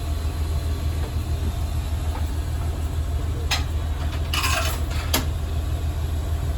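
Diesel railcar engine running with a steady low drone, heard from the driver's cab. Two sharp clicks come about three and a half and five seconds in, with a short hiss between them.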